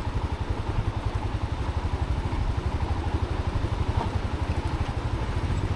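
Motorcycle engine running at low revs under load on a steep, rough climb, with a fast, even chugging that holds steady throughout.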